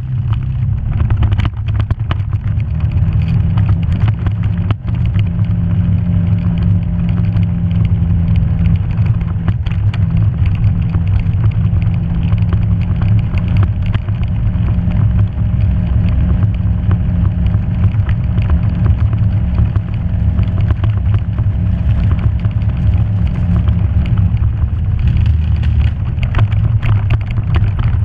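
A vehicle engine running steadily while driving along a rough trail, with frequent short knocks and rattles over the ground.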